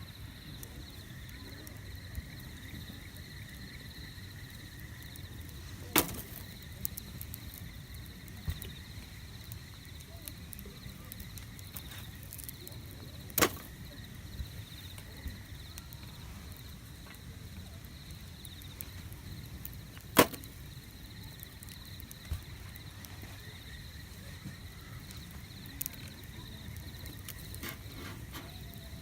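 Wood fire burning with a low steady rumble and scattered crackles, three of them loud sharp pops spaced several seconds apart.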